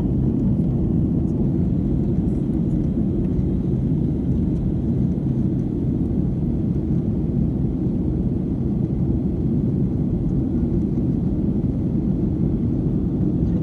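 Airliner cabin noise in flight: the steady low drone of the engines and airflow, even and unbroken throughout.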